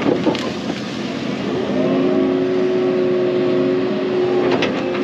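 Excavator engine and hydraulics working: the note rises slightly about a second and a half in and then holds steady under load, with a few knocks near the start and near the end.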